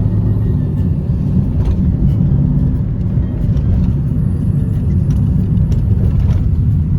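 Motor vehicle running steadily, a continuous low engine and road rumble.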